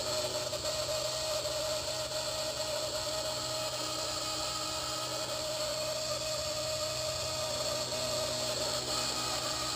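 Blade 130X micro RC helicopter running with a continuous, steady screeching noise, a constant tone with higher overtones over a hiss. The owner says it sounds like a faulty main shaft bearing, but doubts it because the helicopter is under a month old.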